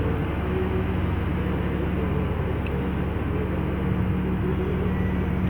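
BharatBenz truck's diesel engine running steadily under way, a constant low drone with road noise.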